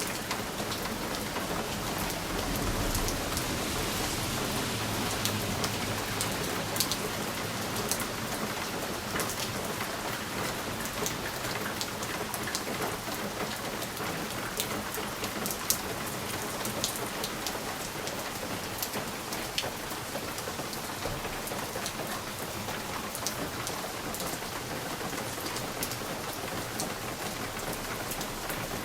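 Steady rain pattering on a window pane, with many sharp individual drop taps over an even hiss. A soft low rumble swells briefly about three seconds in.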